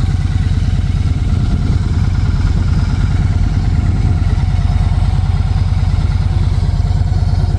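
Victory 106-cubic-inch V-twin engine of a 2014 Cross Country Tour motorcycle idling steadily with an even, loping low pulse.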